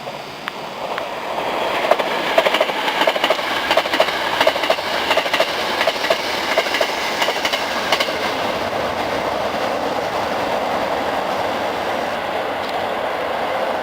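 Hankyu 9300 series eight-car electric train passing through a station at speed. It builds quickly in the first two seconds, its wheels clacking rhythmically over rail joints for several seconds, then settles into a steady rushing running noise as the rest of the cars go by.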